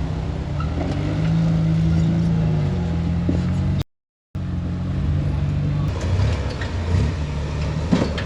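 Rock-crawling off-road rig's engine running under throttle as it works over an obstacle, its pitch rising and then easing off. The sound cuts to silence for half a second about four seconds in, then the engine carries on.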